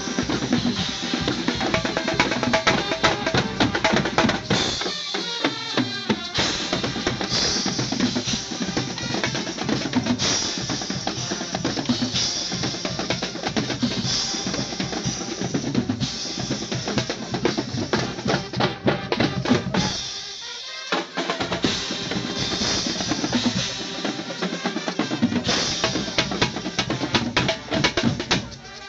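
A band playing, driven by heavy drumming: bass drum and snare drum beating a steady rhythm with rolls, with the low end dropping out briefly twice.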